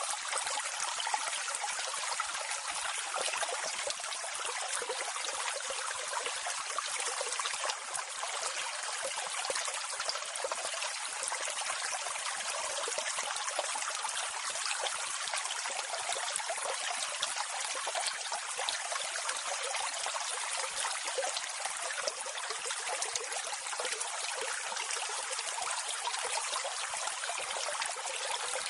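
Water of a small waterfall running and splashing steadily: an even, unbroken rush of water with little deep rumble.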